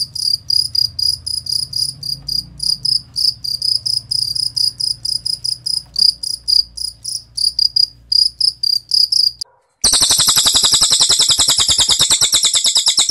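A cricket chirping in quick, evenly repeated high pulses, stopping about nine seconds in. After a brief gap, a cililin bird breaks into a loud, very fast, high rattling trill.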